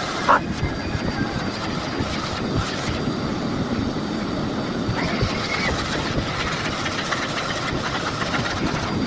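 Miele Blizzard CX1 bagless cylinder vacuum cleaner running steadily, with a faint high whine over the motor and suction noise, played back sped up.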